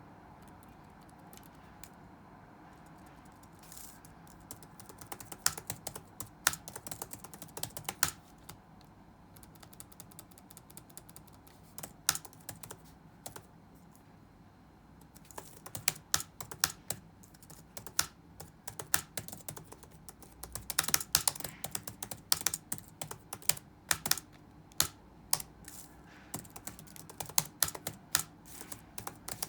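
Computer keyboard being touch-typed in irregular bursts: a few scattered keystrokes at first, runs of keys from about five seconds in, short pauses, then fast steady typing through the second half. A faint steady room hum underneath.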